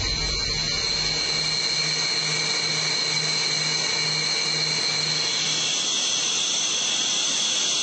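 Jet engine running with a steady high turbine whine over a hiss; a low pulsing hum underneath fades out about halfway through.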